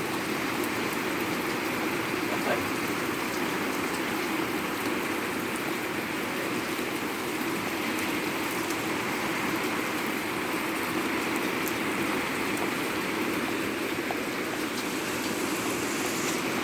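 Heavy rain pouring down steadily, with a few faint scattered drip ticks.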